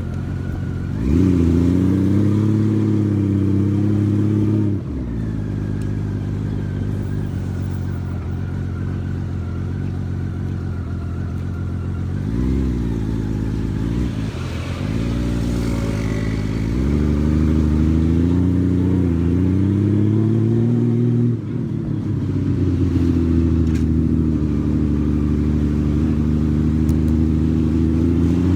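Honda Valkyrie motorcycle's flat-six engine riding in traffic. The note rises under throttle, holds, then drops at gear changes or when the throttle closes, several times over.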